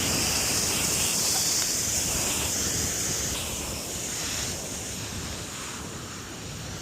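Wind buffeting the microphone: a gusty low rumble under a steady rushing hiss that eases off after about three seconds.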